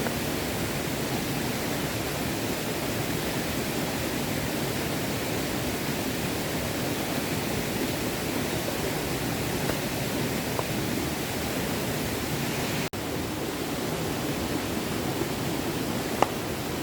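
Small stream running, a steady, even rush of water. A brief dropout comes about two-thirds of the way through, and a single sharp click near the end.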